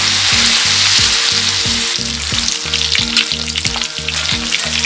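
Food frying and sizzling on a hot griddle pan over a wood fire, close to done. A steady hiss breaks into crackling and spattering about two seconds in.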